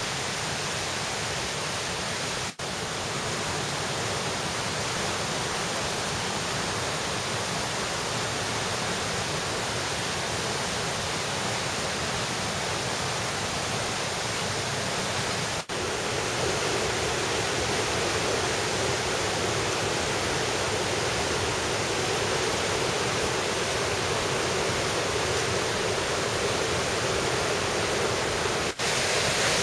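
Steady rush of flowing valley stream water, a constant even hiss that grows slightly louder about halfway through. It is broken by three momentary dropouts.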